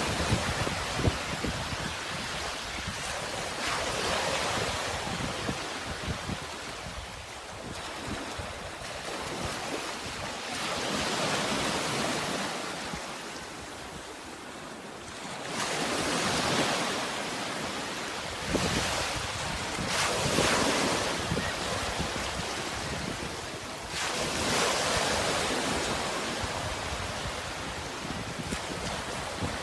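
Sea waves breaking and washing in, the surf swelling and falling back about every five seconds, with wind buffeting the microphone.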